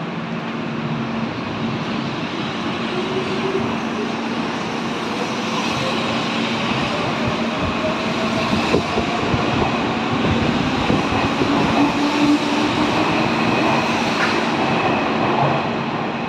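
Hanshin 8000 series electric train running, with rail and wheel noise and a traction motor whine that glides upward in pitch, growing slowly louder. A few sharp clicks are heard, and a steady low hum runs beneath.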